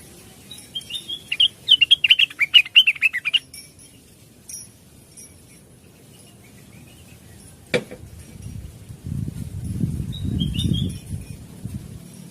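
Cucak wilis (blue-winged leafbird) singing a fast, chattering burst of high chirps lasting about three seconds, with one short chirp again later. About eight seconds in there is a sharp click, followed by a low fluttering rumble of about three seconds.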